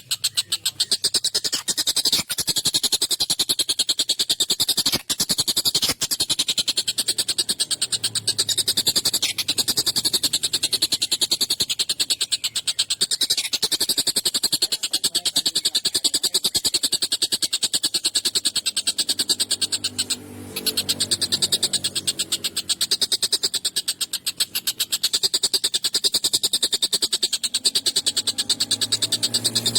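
Collared kingfisher (tengkek buto) giving a long, harsh chattering rattle of very fast repeated notes, with a brief break about twenty seconds in.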